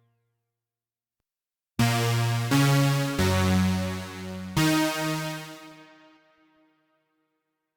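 Cherry Audio P10 software polysynth playing a deep house preset: four sustained chord stabs with sharp attacks, coming in about two seconds in and following one another quickly. The last chord fades away over about two seconds.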